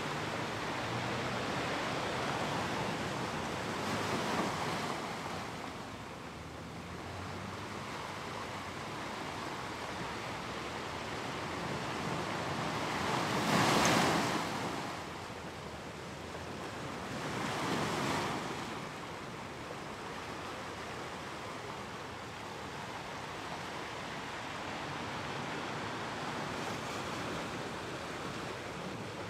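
Ocean waves on a shore: a steady hiss of surf with three larger waves swelling up and washing out, the loudest about halfway through.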